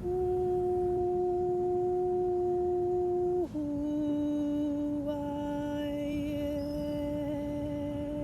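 A woman's voice humming one long steady note, then sliding a little lower after about three and a half seconds and holding the new note, with a slight waver toward the end.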